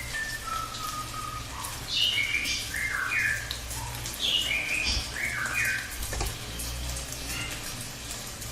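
Cililin (lesser racket-tailed drongo) singing a varied run of clear whistled phrases, most of them notes that sweep down from high to mid pitch, with one long level whistle near the start. A steady low hum runs underneath.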